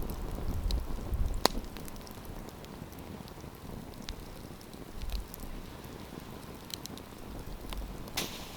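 Wood campfire crackling: scattered sharp pops over a steady low hiss, with one louder pop about a second and a half in and a short flurry of crackles near the end.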